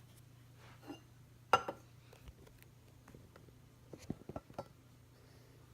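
A few light clicks and knocks: a sharp click about a second and a half in and a quick run of small knocks around four seconds, over a low steady hum.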